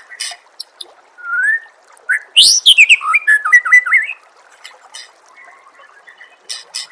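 White-rumped shama singing: sharp chipping notes and a rising whistle, then about two seconds in a fast run of varied whistled notes, with more sharp chips near the end.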